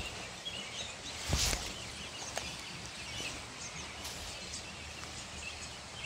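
Small birds chirping now and then over a steady rushing background noise, with a short rustle about a second and a half in.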